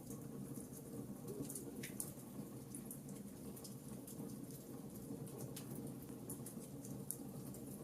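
Fireplace crackling: many small sharp pops and ticks at irregular intervals over a low, steady rumble of burning flames.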